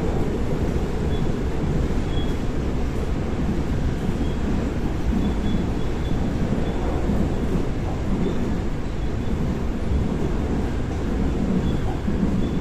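Seoul Line 4 4000-series electric train (Daewoo–Alstom GTO VVVF stock) running between stations: a steady rumble of wheels and running gear, with faint brief high squeaks now and then.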